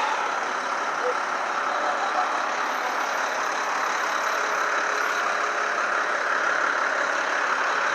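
Steady street noise of idling truck engines and traffic.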